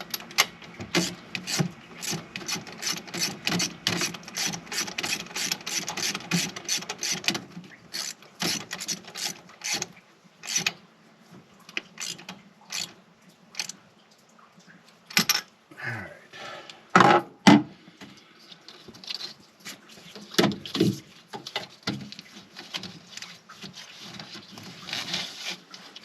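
Ratchet wrench clicking quickly as a spark plug is worked in the engine, followed by scattered clicks and a couple of louder knocks of tools against metal about two-thirds of the way through.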